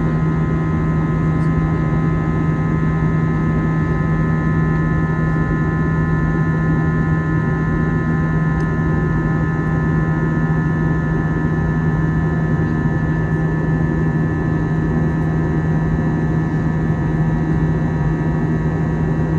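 Steady drone inside an airliner cabin on the ground: a low hum with a few steady high-pitched whining tones over a noisy rush of air, unchanging throughout.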